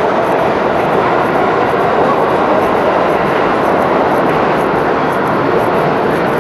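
Loud, steady rumble and roar of a subway train running through the underground station.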